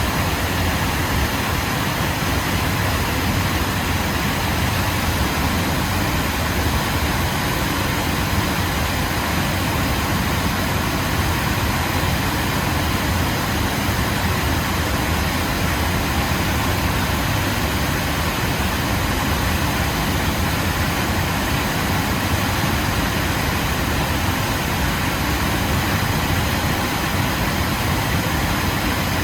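Waterfall: water pouring and splashing in a steady, continuous rush with a deep low rumble.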